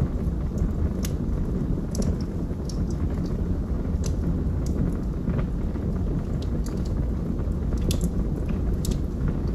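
Log fire crackling: scattered sharp pops and snaps, a few a second at most, over a steady low rumble.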